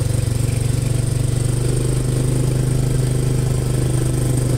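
An engine running steadily at idle close by, a low even hum with rapid regular firing pulses.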